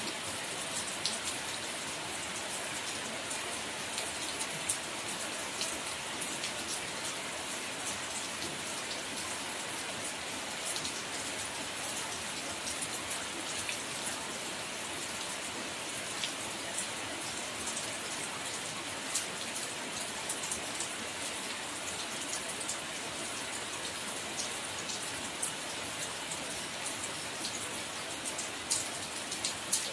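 Steady rain falling, an even hiss with many sharp drop ticks scattered over it.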